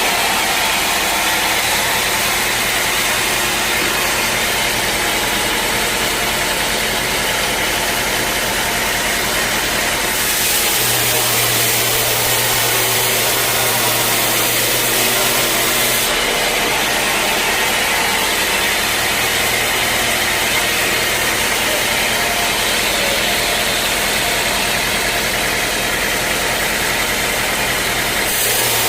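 Sawmill machinery running steadily with a loud mix of motor hum and hiss. Between about ten and sixteen seconds in, a low hum comes up and the high hiss drops back.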